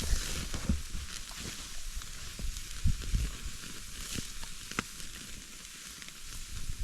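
Marinated sirloin steak sizzling steadily on a grill top over an open campfire, with a few sharp pops scattered through it.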